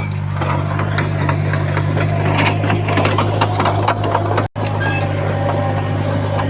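Diesel engine of a heavy earthmoving machine running steadily under load, with many sharp clicks and knocks of stone and metal over it. The sound cuts out for an instant about four and a half seconds in.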